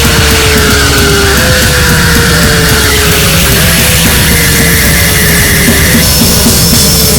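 Harsh noise music: a loud, dense wall of distorted noise over a rapidly pulsing low end. Slowly falling tones repeat in the midrange, and the noise bands change abruptly every few seconds.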